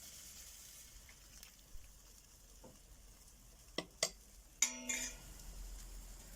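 Food cooking over a fire: a faint steady sizzle, with two sharp clicks a little under four seconds in and a short squeaky scrape just after.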